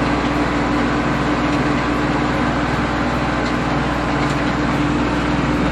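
Iseki Geas AT340 tractor's diesel engine running steadily under load, pulling a wing harrow through a flooded rice paddy during puddling.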